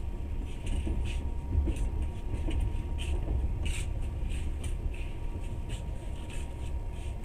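Moving train heard from inside the carriage: a steady low drone of the running gear, with irregular light rattles and clicks several times a second.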